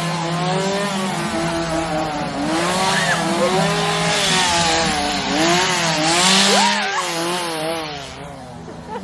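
Chainsaw engines revving up and down over and over, more than one running at once.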